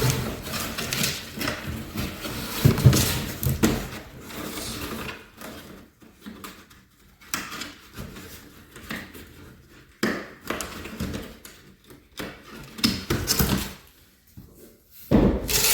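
Cardboard box and packaging being handled: irregular rubbing and scraping with scattered knocks, busiest in the first few seconds and sparser after.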